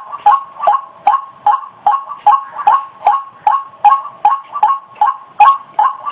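White-breasted waterhen (ruak-ruak) calling over and over, a short two-part call repeated evenly about two and a half times a second. It is the bird's call as used to lure others of its kind.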